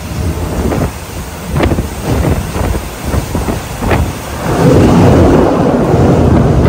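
A moving passenger train heard from inside an open-windowed carriage: a steady rumble with irregular knocks and clacks from the wheels and the rattling car body. From about four and a half seconds in, a louder rush of wind blows through the open window onto the microphone.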